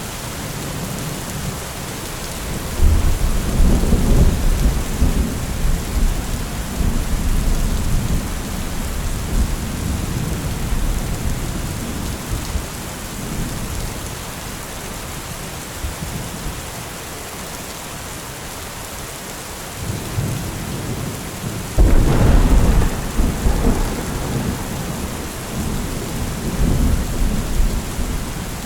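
Steady rain with thunder: a long low rumble rolls in about three seconds in and slowly fades, and a second, sharper thunderclap breaks about three quarters of the way through and rumbles away.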